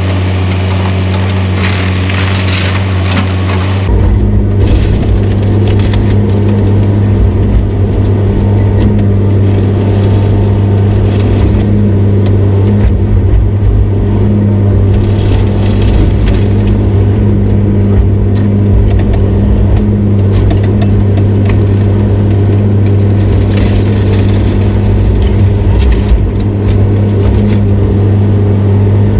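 Diesel heavy-equipment engine running steadily under load, with crushing and crackling of demolition debris; a deeper rumble comes in about four seconds in.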